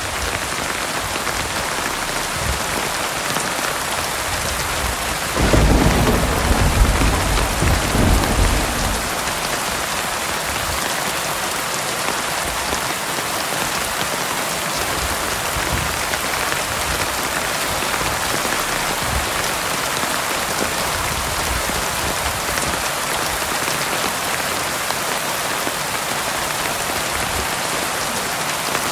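Heavy rain falling steadily, with a low rumble of thunder starting about five seconds in and lasting three to four seconds.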